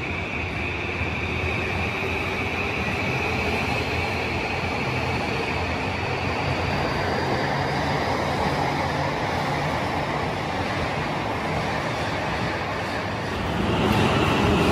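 E235 series 1000 electric train running past the platform: a steady rumble of wheels on rail under a faint rising motor whine as it pulls out, getting louder near the end.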